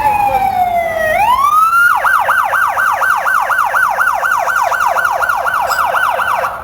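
Police car siren close by: a long falling wail that swings back up into a fast yelp of about four sweeps a second, then cuts off suddenly.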